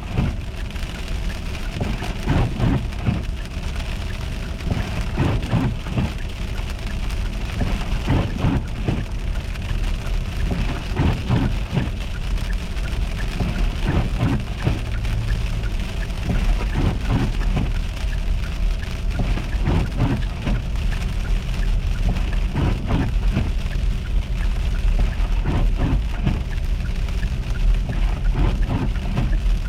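Car driving on a road in an ice storm: a steady low rumble of road noise with irregular ticks and spatters throughout.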